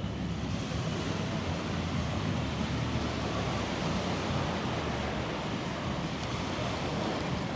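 Steady wash of surf on the beach, with wind on the microphone.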